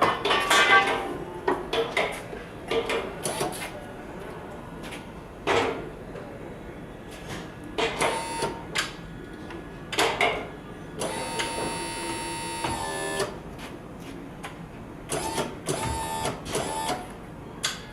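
Electric lift truck with drum rotator at work: a string of metal clanks and knocks, and the electric lift motor whining steadily for about two seconds past the middle.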